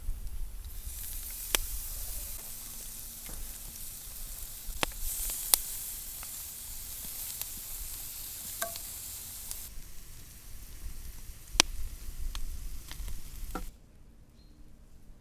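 Food frying in a pan over a campfire: a steady high sizzle with scattered sharp pops and crackles. The sizzle thins out about ten seconds in, and the sound drops away abruptly near the end.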